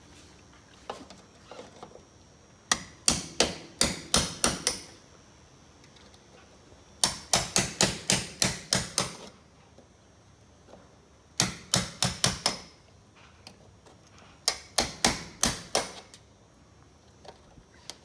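Hammer tapping in four bursts of quick strikes, about four or five a second, on the caravan's riveted panel fixings as rivets are worked out.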